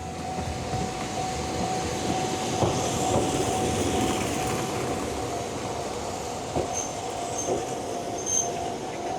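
Ohmi Railway train at a station: a steady electrical hum over rail rumble that grows louder a few seconds in, with a few short, high squeaks near the end.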